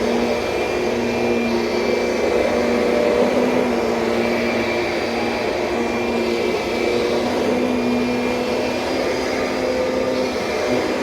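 2007 Kirby Sentria upright vacuum cleaner running steadily, its motor giving an even, pitched hum that changes only slightly in level.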